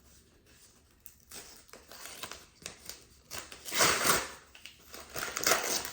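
Paper mail being handled: envelopes and letters rustling, with two louder crinkling rushes, about four seconds in and again near the end.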